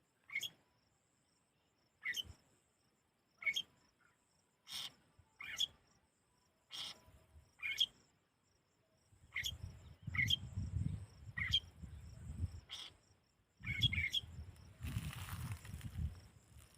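A small bird giving short, sharp chirps, one every second or so. From about halfway there is a low rumble underneath, and a brief rustle near the end.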